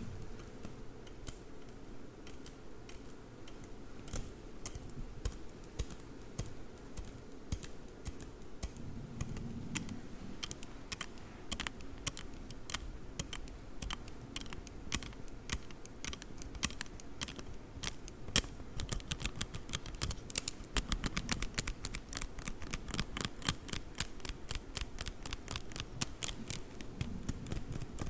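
Rapid, irregular clicking and tapping on a folding ruler (Zollstock) in close-up, growing quicker and denser about two-thirds of the way through.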